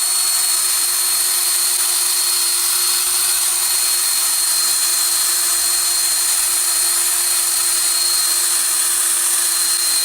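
Electric buffer wheel running steadily at full speed, a steady hum with a high whine over a hiss, used to clean up a piece of the vise's metal.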